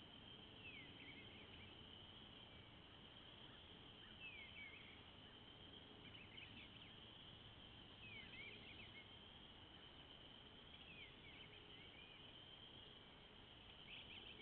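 Near silence: faint outdoor ambience with a steady high hiss and faint, distant bird chirps, short falling notes that come in small clusters every couple of seconds.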